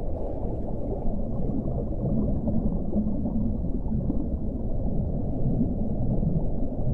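Ocean ambience: a steady, low rumble of water, with faint low tones drifting through it.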